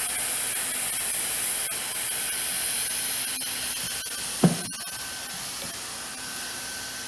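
Automatic hot air roof welder's blower running with a steady hiss, its airflow set to maximum while it welds TPO membrane down to coated edge metal. A short thump about four and a half seconds in.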